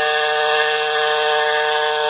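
Small model-aircraft engine of a variable-pitch quadcopter running at a steady speed while it hovers, a loud high-pitched drone that holds one pitch without rising or falling.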